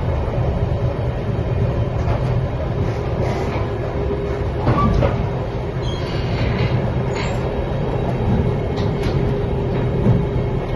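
Steady rumble of an express passenger train running at speed, heard from inside the carriage, with a few brief light clicks around the middle.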